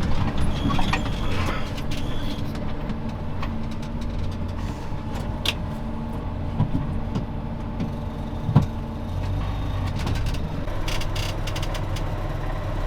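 Valtra T191 tractor's six-cylinder diesel engine running steadily while driving, with a couple of brief knocks or clicks about halfway through.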